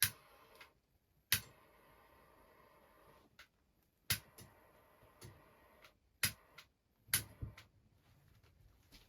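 A handful of sharp knocks and clicks at irregular intervals, about six in all, with a faint steady hiss between them.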